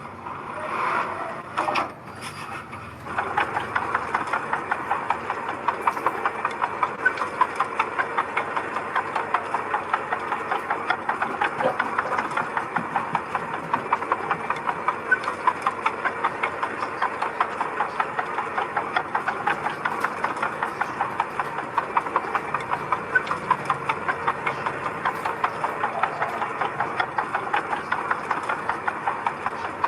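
Diesel engine of a heavy machine running steadily with a regular, rapid clatter, setting in about three seconds in.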